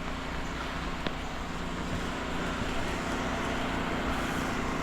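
Soft-wash rig's generator and booster pump running steadily: a constant hum with an even hiss over it. One sharp click about a second in.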